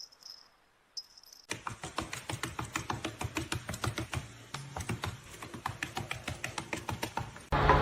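A quick, uneven run of light clicks or taps, several a second, starting about one and a half seconds in. Just before the end a louder, steady noise cuts in.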